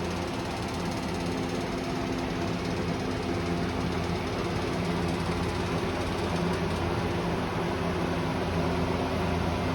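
Electric fan running steadily, a constant motor hum with rushing air.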